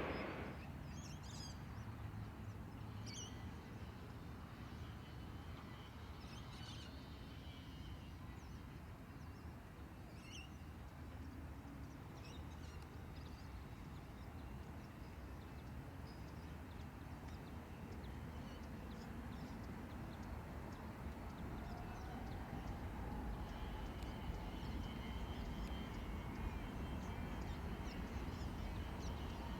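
Scattered short bird chirps over a faint steady low rumble, as the noise of a passing jet airliner dies away at the start.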